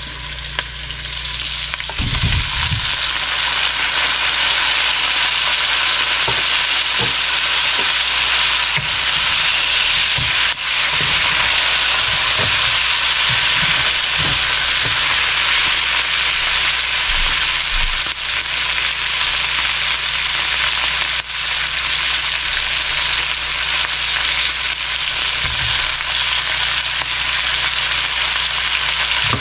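Browned chicken drumsticks sizzling in hot oil in a wok with sautéed onion and garlic, stirred with a wooden spatula. The sizzle steps up about two seconds in as the chicken goes into the pan, and light knocks of the spatula come now and then.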